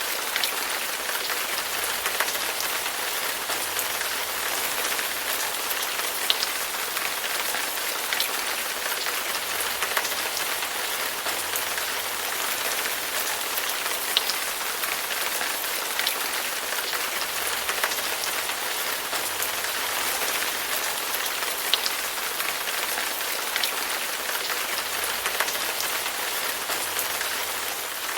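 Heavy rain falling steadily on a hard surface, with a constant hiss and individual drops ticking sharply every second or two.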